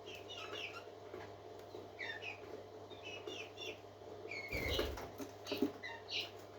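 Parakeets chirping and twittering in quick short chirps, several at a time, with a brief rustle about four and a half seconds in. A faint steady hum runs underneath.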